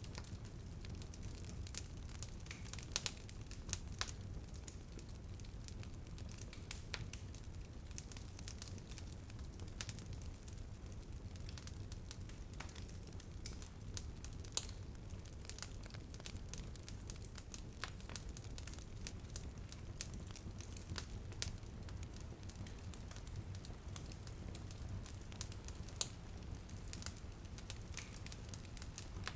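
Wood fire crackling in a fireplace: a steady low rumble of the flames with irregular sharp pops and snaps, a few louder ones scattered through.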